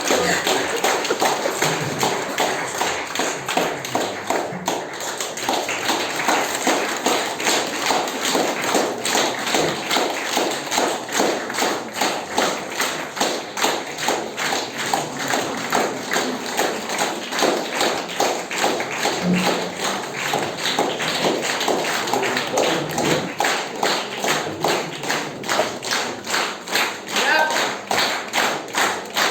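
Audience applauding, the claps falling together into a steady, even rhythm.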